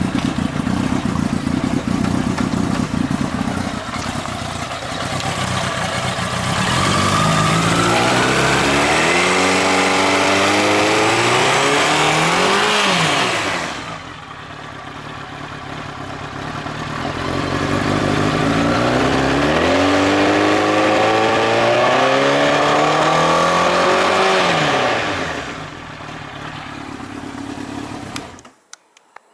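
Honda X4's inline-four engine idling, then revved twice. Each rev climbs steadily in pitch for several seconds before falling back. Near the end the engine is switched off, followed by a few light clicks.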